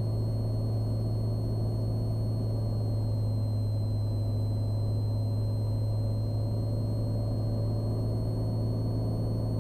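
Cessna Skylane's engine and propeller droning steadily in the cabin on final approach, with a faint, steady high whine above the drone.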